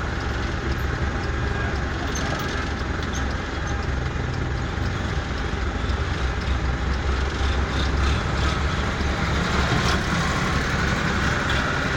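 Recovery truck's engine running steadily while its hydraulic lift is worked.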